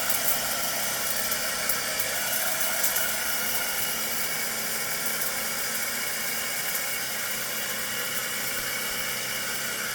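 Cordless battery-powered pressure washer running steadily: its small motor and pump whine over the hiss of the water jet spraying.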